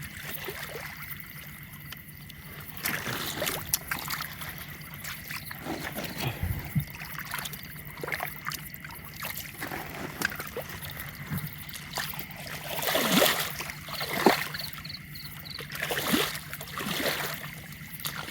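Water splashing and trickling in irregular bursts, with louder splashes in the second half, as someone moves through shallow canal water catching fish.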